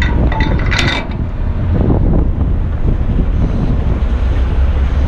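Steady low rumble of wind on the microphone over the idling eight-wheeler dump truck, with a few sharp metallic clinks in the first second, metal parts of the truck being handled.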